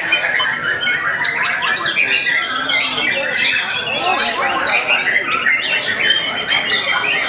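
Many white-rumped shamas (murai batu) singing at once in contest, a dense, continuous tangle of fast whistled phrases, trills and harsh chattering calls.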